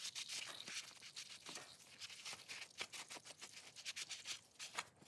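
Shop rag wiping spilled oil off a motorcycle's oil filter housing and engine: faint, quick scratchy rubbing strokes.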